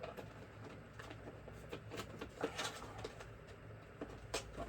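Screwdrivers being handled and fitted into their plastic holder: scattered light clicks and rattles, a few louder ones about two seconds in and near the end.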